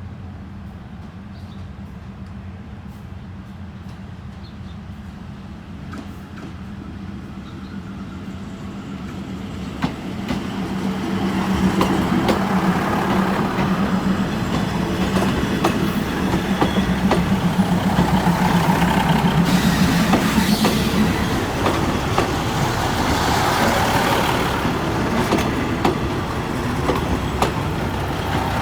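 Diesel train running on the station tracks, its engine a steady drone that grows much louder about ten seconds in as it comes close, with wheels clattering over the rails.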